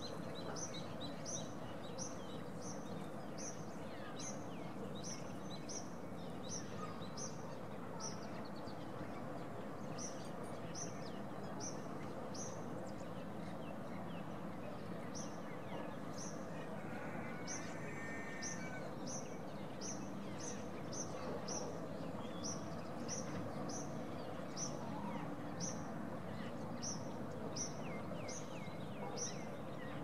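A bird repeating a short, high chirp about twice a second over steady background noise, with a lower, longer call about halfway through.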